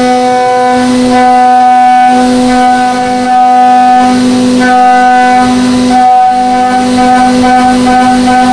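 End mill cutting aluminum on a Haas VF2SS CNC mill: a loud, steady, buzzing whine at one fixed pitch with many overtones. It falters briefly about three and six seconds in.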